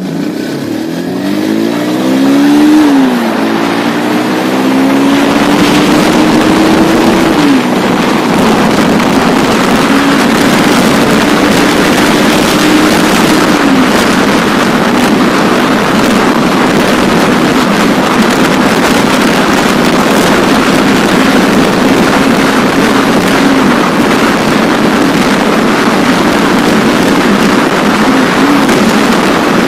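Bajaj Pulsar 180F's single-cylinder engine accelerating hard from a standstill, its pitch rising and then dropping at three upshifts in the first fourteen seconds, then running steady at high speed. Heavy wind rush on the microphone throughout.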